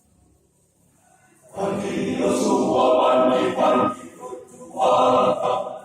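A men's church choir singing in Indonesian, coming in loudly about a second and a half in after a near-silent start, with a short dip between phrases about four seconds in.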